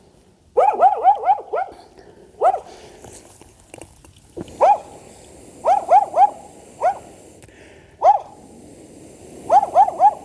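A dog barking: short, sharp barks in quick runs of three to five, with single barks between.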